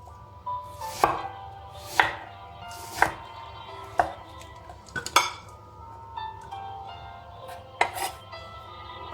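Knife chopping on a cutting board: single sharp strokes about once a second, with a pause in the middle and two close together near the end, over faint background music.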